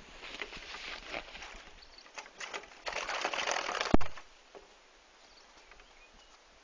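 Small bird trapped indoors, fluttering and flapping its wings against a window at the sill in irregular flurries, the longest about three seconds in. A single sharp click about four seconds in.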